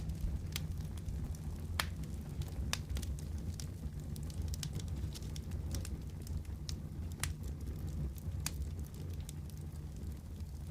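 Fireplace fire crackling: a steady low rumble with irregular sharp pops and snaps, a few every second.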